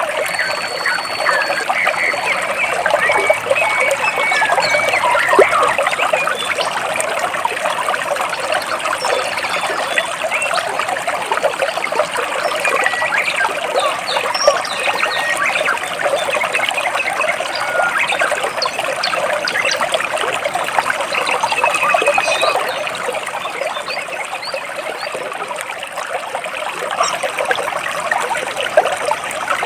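Stream water running and splashing between rocks, a steady trickling rush, with a few brief, high bird chirps over it.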